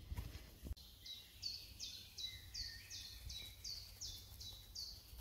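A songbird singing faintly: a steady run of about ten high notes, each sliding downward, about two and a half a second. A single click comes about three-quarters of a second in.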